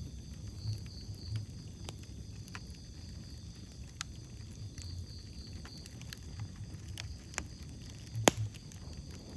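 Wood fire crackling in a fireplace: scattered sharp pops and snaps over a low rumble, with one loud snap about eight seconds in.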